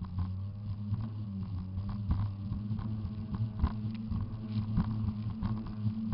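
Jet ski engine running at a steady, low even pitch, with frequent short knocks and taps over it.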